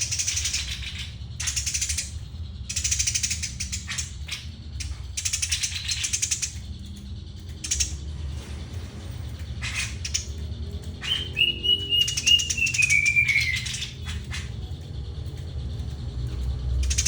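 Eurasian tree sparrow chirping in quick repeated bursts, with one falling whistle about two-thirds of the way through, over a steady low hum.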